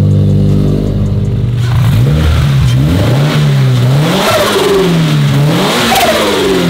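Turbocharged Subaru BRZ flat-four engine idling, then free-revved several times with no load, the pitch rising and falling with each blip. Near the tops of the revs there is a burst of hiss from the GReddy blow-off valve venting.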